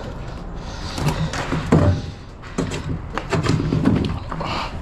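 Scrap metal being handled and pried apart: a run of sharp knocks and clanks, some with a short ring, from about a second in.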